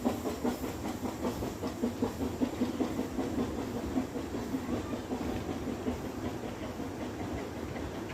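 Narrow-gauge steam train running, with a rapid rhythmic beat and some hiss. The beat is strongest for the first five seconds or so, then eases a little.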